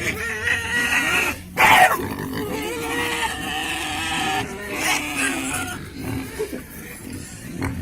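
Pigs calling, with one short, loud cry about a second and a half in.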